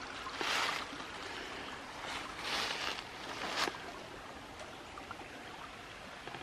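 Creek water running steadily, with three brief louder noisy swishes over it.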